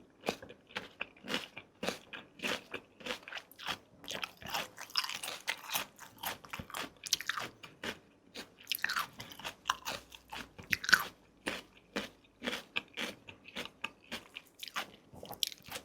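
Close-miked eating: a person biting and chewing, with crisp crunches and wet mouth clicks coming several times a second.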